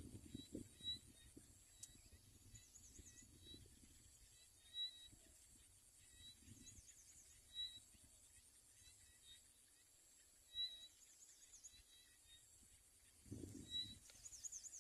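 Quiet rural outdoor ambience: faint, short high chirps from small animals repeat in little groups every second or so. A few soft knocks and some rustling come at the start and again near the end.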